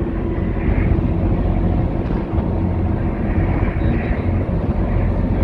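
Steady low rumble of the Galveston–Bolivar car ferry's engines under way, with a few faint steady tones above it.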